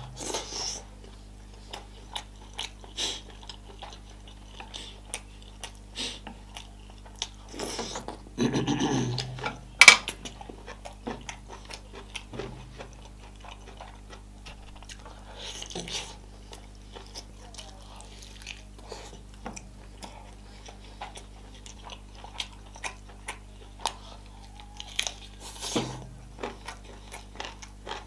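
Close-miked chewing and wet mouth sounds of a person eating chilli sausage and a chicken drumstick, with many small sharp clicks and one louder click about ten seconds in. A steady low hum runs underneath.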